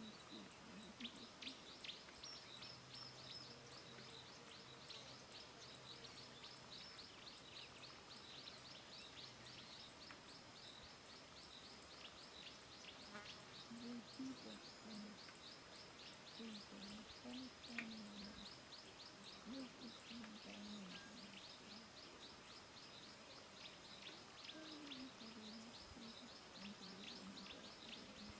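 Faint birdsong: a rapid, even series of high chirps keeps going throughout, with a few short, low wavering calls in the second half.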